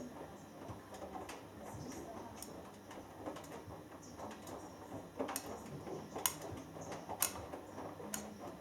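Hoover Dynamic Next washing machine in the early wash of a cotton cycle, its drum turning with a low steady hum. The tumbling load gives a few sharp clicks and knocks, about five, six and seven seconds in.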